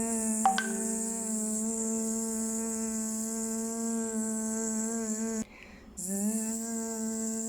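A woman imitating a bee's buzz with her voice: a long, steady 'zzz' held on one pitch. It breaks off for about half a second, some five and a half seconds in, and then starts again.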